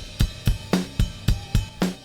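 Recorded drum kit playing a steady beat (kick, snare, hi-hat and cymbals), about four hits a second, through the SB4000, a DIY stereo bus compressor modelled on the SSL 4000 G centre-section compressor.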